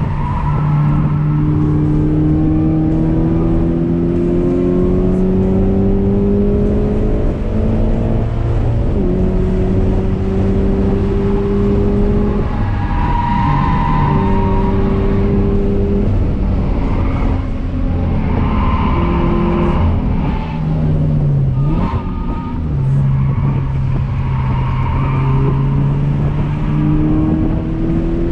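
A 2017 Toyota 86's 2.0-litre flat-four engine, heard from inside the cabin while lapping a track: its pitch climbs steadily under acceleration and drops back several times at gear changes and lifts for corners, then climbs again near the end.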